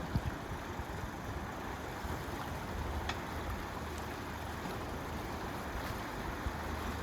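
Boat engine running steadily at idle, a low even hum with a few faint ticks over it.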